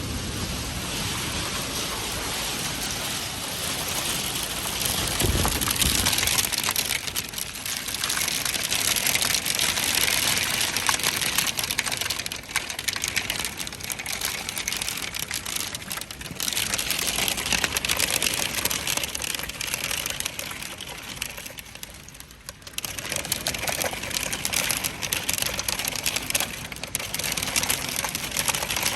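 Hailstones pelting down in a heavy hailstorm: a dense clatter of countless small impacts. It eases briefly about three-quarters of the way through, then builds again.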